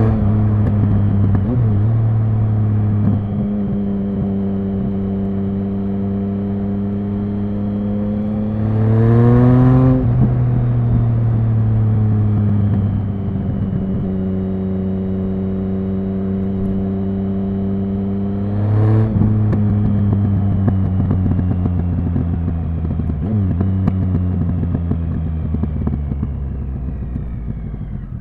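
Triumph Speed Triple 1050's inline three-cylinder engine and exhaust running under way. The revs climb twice, about nine and nineteen seconds in, and each time fall away sharply. Toward the end the engine slows and grows quieter as the bike rolls off.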